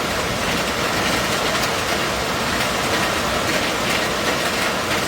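Heavy storm downpour pelting down on surfaces in a steady, dense hiss, with faint scattered ticks.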